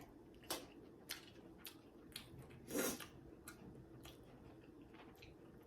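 Close-miked eating sounds: a person chewing food, with scattered wet mouth clicks and smacks and one louder, longer bite or chew about halfway through.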